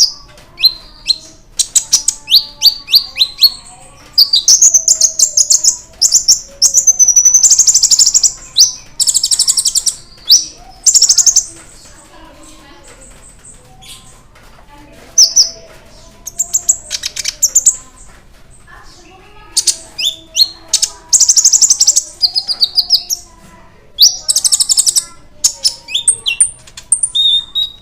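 Konin (kolibri ninja) sunbird singing loudly: rapid high, metallic chattering trills and note series in bursts of a second or two, with a few seconds' pause near the middle. It is the excited, full song of a bird in form, played as a lure to provoke other konin.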